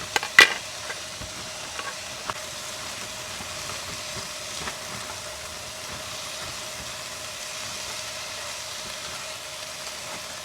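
Hamburger and peppers sizzling in a frying pan, with a couple of sharp clanks from the stirring utensil against the pan near the start.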